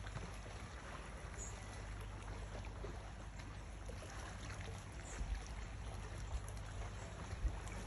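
Outdoor waterside ambience: a steady low rumble with faint trickling water and two soft thumps near the end.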